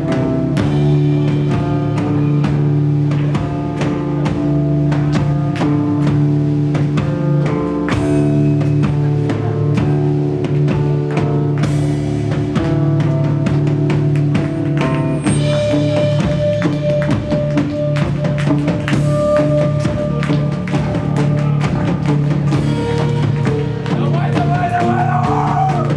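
Rock band playing live: a drum kit keeps a steady, busy beat under sustained guitar notes, and the part changes about fifteen seconds in.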